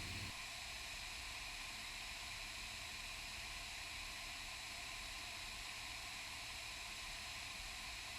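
Steady faint hiss with a low hum underneath, the background noise of a light aircraft's cockpit intercom and headset audio feed in cruise, between transmissions.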